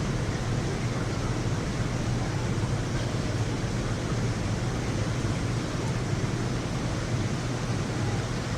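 Rain falling steadily during a thunderstorm, an even rush of noise with no thunderclap in it.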